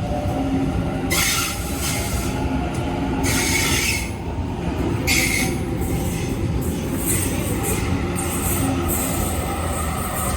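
Sydney Trains electric suburban train moving through the station, wheels and rails running with a steady rumble and a faint whine that drifts in pitch. Three loud screeching squeals cut in at about one, three and five seconds.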